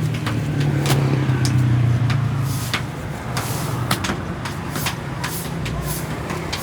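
An engine or motor running steadily, louder for the first two seconds or so and then easing off, with many sharp clicks and knocks scattered through it.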